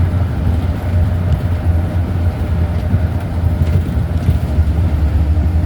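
Strong wind buffeting the microphone with a loud, steady low rumble, over an even hiss of heavy rain.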